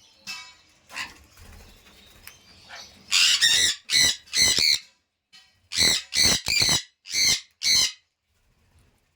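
Parrot calling: a few faint calls, then a run of loud short calls in two bursts, the first about three seconds in and the second about six seconds in.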